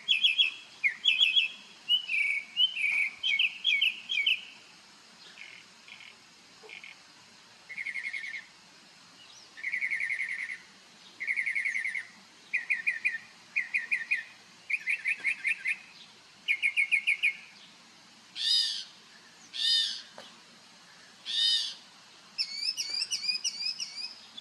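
A songbird singing a long, varied song: short phrases, each a rapid run of the same note repeated, switching to a new phrase every second or two. Near the end come a few louder, higher upswept notes, then a fast run of rising chirps.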